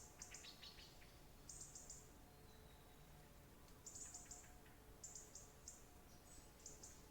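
Faint birdsong: short, high chirps in quick runs of three or four, recurring every second or so, with one lower falling run of notes near the start, over a soft steady hiss.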